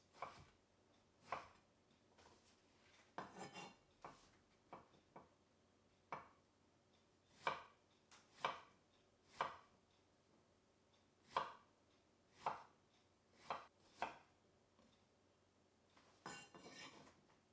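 Kitchen knife cutting vegetables on a cutting board: single cuts about a second apart, with two short quick flurries of cuts.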